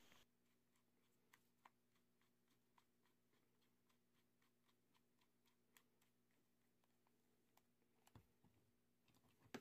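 Near silence with faint, scattered small clicks, roughly two or three a second, from a Torx screwdriver driving screws into a plastic battery pack casing. A slightly louder cluster of clicks comes near the end.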